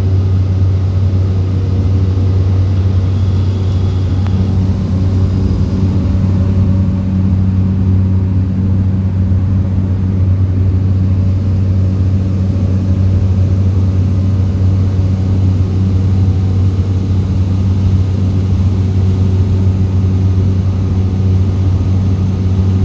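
Susi Air propeller plane's engine and propeller droning steadily at take-off power, a deep even hum with a faint high whine above it.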